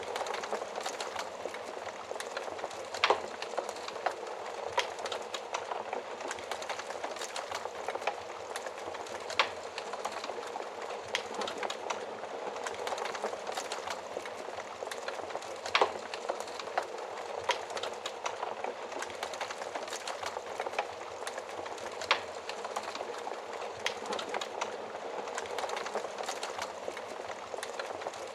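Wood fire burning in an oven: a steady hiss of flames with frequent sharp crackles and pops. The loudest pops come about 3, 16 and 22 seconds in.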